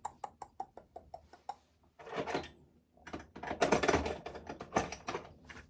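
A quick run of small sharp clicks, then scraping and rattling of small plastic and metal parts: a diecast model car being taken apart by hand, with its rear light piece being worked loose.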